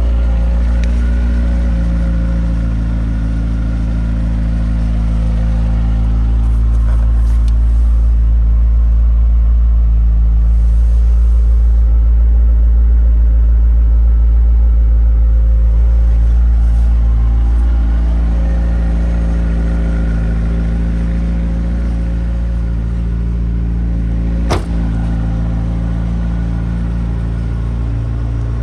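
McLaren 600LT Spider's twin-turbo 3.8-litre V8 idling steadily, with one sharp knock near the end.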